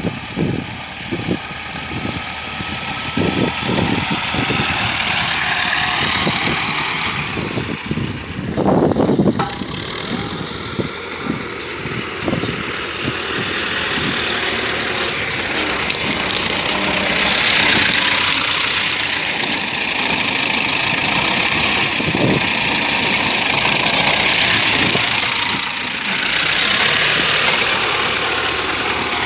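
T-40 tractor's diesel engine running, its pitch rising and falling as the revs change. A run of knocks and clanks comes in the first few seconds, with the loudest about nine seconds in.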